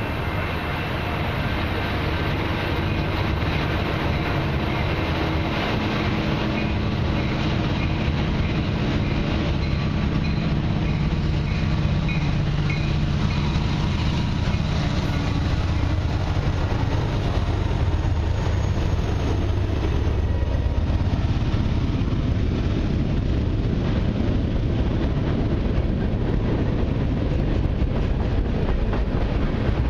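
Freight train led by three CN diesel locomotives passing close by: the locomotives' low engine drone builds and is strongest about a third to two-thirds of the way through, then gives way to the steady rumble and wheel clatter of the freight cars rolling past.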